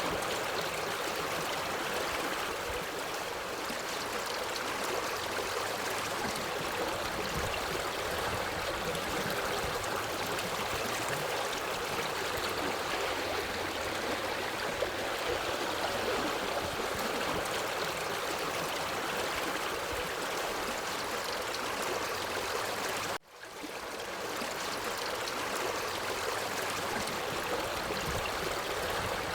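Forest stream flowing over rocks, a steady rush of water. About three-quarters of the way through, the sound cuts out abruptly for a moment and fades back in.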